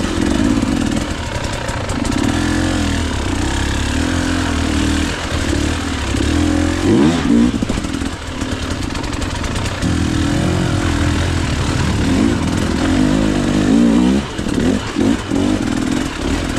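KTM EXC 300 two-stroke dirt bike engine revving up and down as the throttle is worked, with a sharp climb in revs about halfway through and quick blips near the end.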